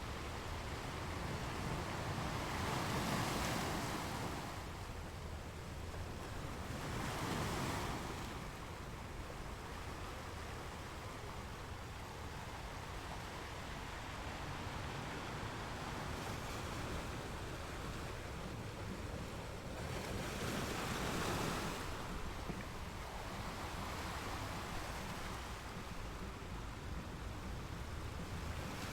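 Ocean waves breaking and washing on a beach: a steady surf hiss that swells into louder breakers three times, about 3 s, 7 s and 21 s in.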